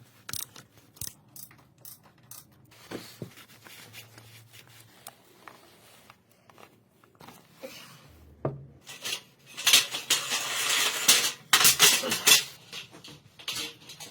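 Metal hand tools clinking and knocking against each other and on engine parts, sparse at first, then a burst of dense, loud clattering from about nine and a half seconds in that lasts a few seconds.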